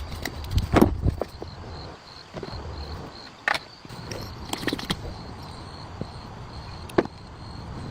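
Scattered knocks and clinks of tools and parts being handled during diesel engine repair work, with a steady insect trill behind them.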